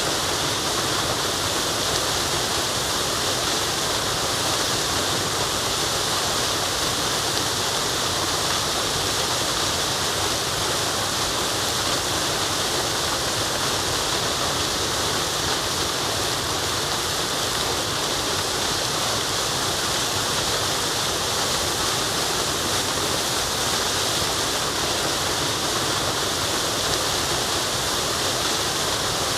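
Waterfall rushing in a steady, unbroken hiss of falling water, bright and even throughout.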